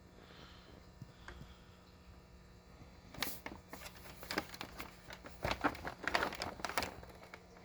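Handling noise from a small plastic vacuum cleaner's body being turned over and searched: a run of light clicks, taps and rattles that starts about three seconds in and stops shortly before the end.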